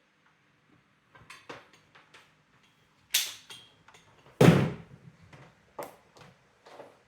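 Parts of a Brother AX-425 electronic typewriter being handled during disassembly: a scattered series of clicks and knocks, the two loudest about three and four and a half seconds in.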